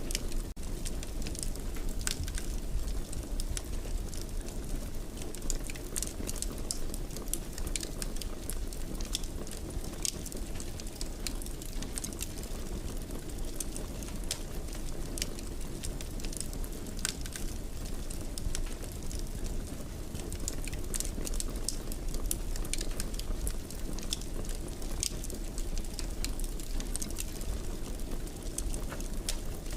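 Fireplace fire burning: a steady low rumble with frequent small crackles and pops throughout.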